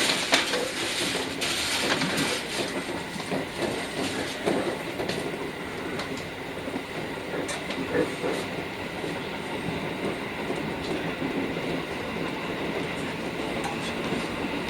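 JR Kyushu 415 series 1500 electric multiple unit running at speed, heard from inside the leading car: a steady rumble of wheels on rail with a few sharp clacks over rail joints.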